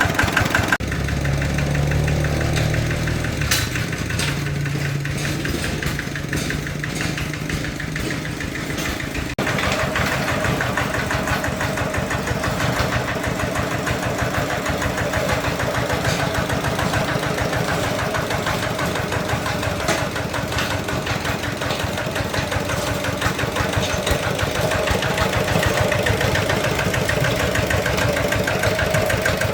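A tractor engine running with a rapid, even firing beat. The sound shifts abruptly about a second in and again about nine seconds in.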